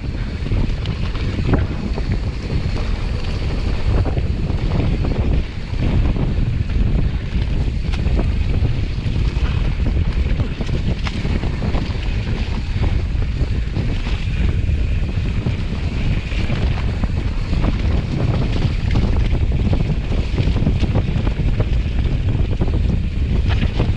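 Wind blowing on the microphone: a loud, gusting low noise that rises and falls.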